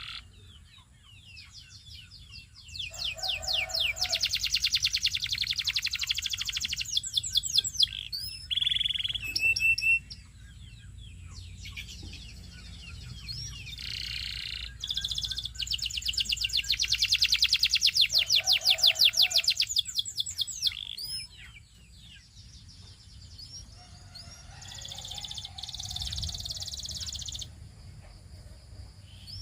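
Canary singing: long songs of fast, rattling trills, two loud phrases several seconds long each, with quieter chirps and short pauses between them.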